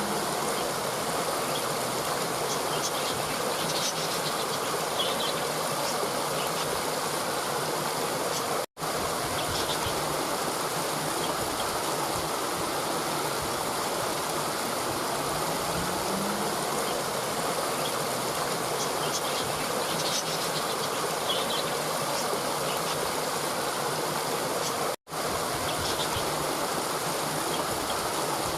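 Steady rush of a flowing stream, with faint, short high chirps now and then. The sound cuts out for an instant twice, about nine seconds in and near the end.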